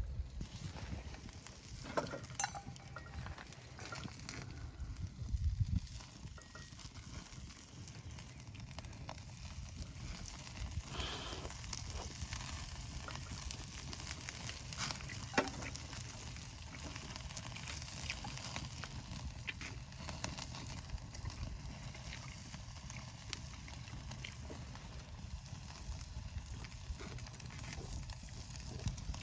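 Meat sizzling on a grill over a wood campfire, a steady hiss with a few sharp crackles and clicks.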